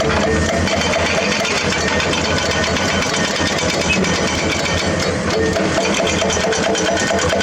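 Heavy diesel construction machinery running steadily, a dense fast engine rattle.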